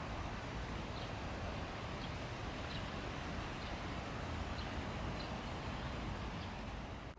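Steady outdoor background noise with faint, short high chirps about once a second.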